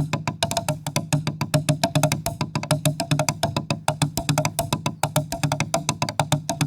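Percussion music: a fast, even run of sharp strikes over a steady low tone.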